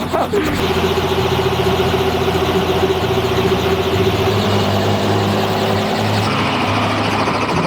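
Helicopter engine and rotors running steadily, with a constant whine over a low drone that shifts in pitch about four seconds in.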